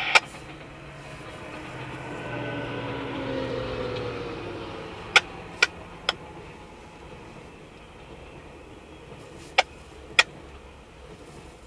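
GO Transit bilevel commuter coaches rolling past: a passing train sound falling in pitch over the first few seconds, then sharp clicks of wheels striking a rail joint, three in quick succession midway and a pair near the end.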